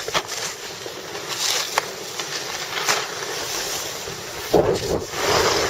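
Wind buffeting the microphone on a ski slope, a steady rushing with scattered knocks and a louder gust near the end.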